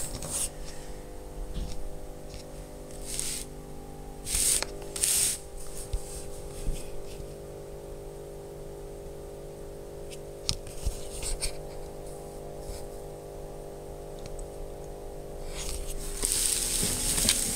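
Short bursts of rustling handling noise over a steady hum of sustained tones, with a longer stretch of rustling near the end.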